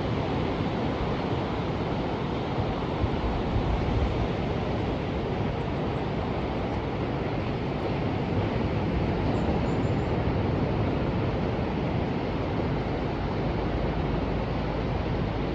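Ocean surf washing continuously in a steady rush of noise, heaviest in the low end, with wind rumbling on the microphone.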